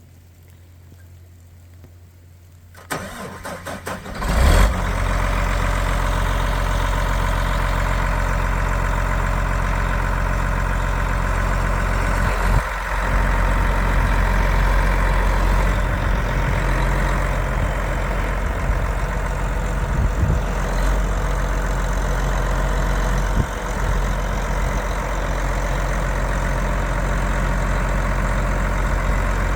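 The diesel engine of a 2004 John Deere 9520 Scraper Special 4WD tractor is cranked by the starter for about a second and a half. It catches about four and a half seconds in and then runs at a steady idle.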